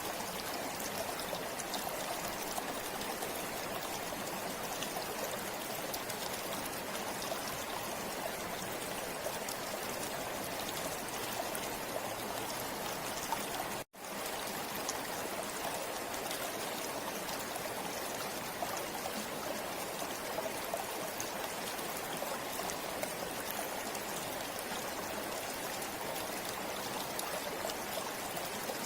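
Flowing river water rushing and splashing in a steady, even wash. The sound cuts out completely for an instant about halfway through, then resumes unchanged.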